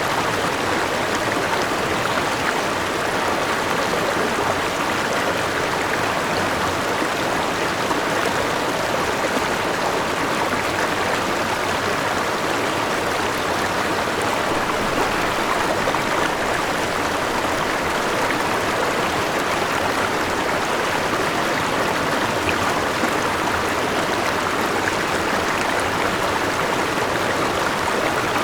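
River and small waterfall rushing and splashing over rocks, a steady, unbroken flow of water.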